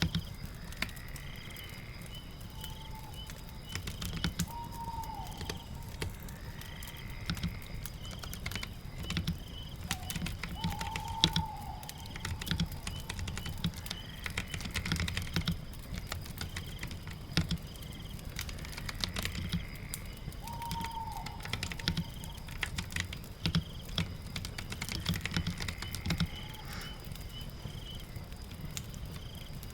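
Computer keyboard typing in irregular runs of clicks over a steady patter of rain. Faint high chirps recur every few seconds.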